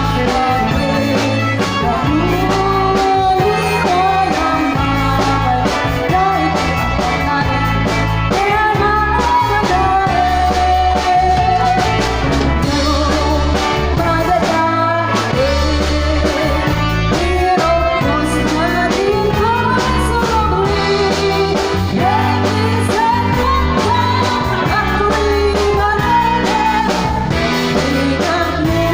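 A live band playing a rock song over a PA sound system, with a singer's voice carrying the melody over guitar and a heavy, steady bass.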